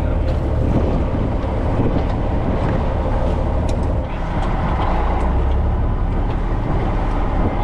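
A fishing boat's engine running, a steady loud low rumble with a wash of noise over it.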